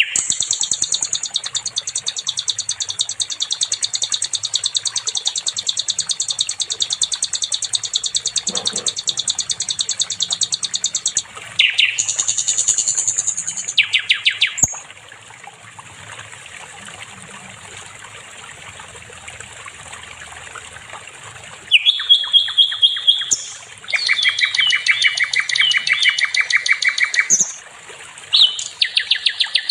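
Sikatan londo singing: a long, fast, high trill of rapidly repeated notes lasting about eleven seconds, then shorter trilled phrases. A quieter pause of several seconds follows, then more rapid trills and warbles resume after about twenty seconds.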